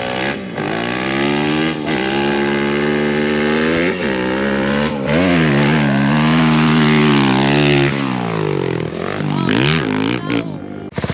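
Off-road vehicle engine running under load, its pitch holding steady with several brief dips, climbing about midway, then falling and revving up and down near the end.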